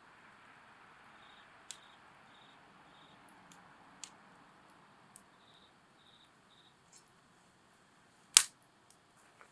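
Wood campfire crackling: a soft hiss with scattered sharp pops, and one much louder crack near the end. Crickets chirp in short pulsed groups in the background.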